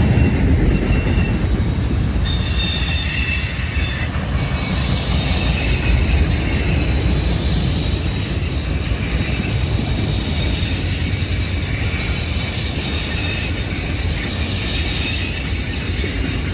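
Freight train of car-carrier (autorack) cars rolling past with a steady low rumble, and high-pitched wheel squeals that come and go over it.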